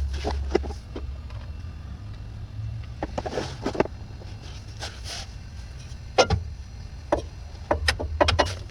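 Irregular sharp metallic clicks and knocks of hand tools working at a truck's transmission extension housing seal, with a few louder knocks about three seconds in and again after six seconds, over a low steady rumble.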